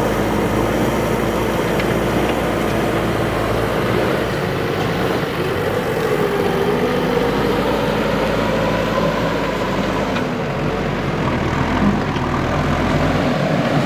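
A JCB 3DX backhoe loader's diesel engine running steadily, its note drifting up and down a little as the machine works.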